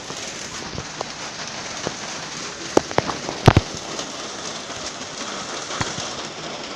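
Steady rain falling, with scattered louder drops striking a hard surface and a short cluster of loud knocks about three seconds in.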